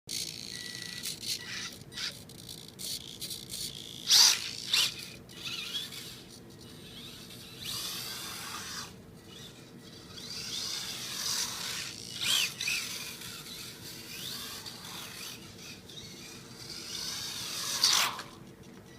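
Small electric motor and gears of a 1/36-scale Losi Micro Desert Truck RC truck whining, rising and falling in pitch as it speeds up and slows, with scattered clicks.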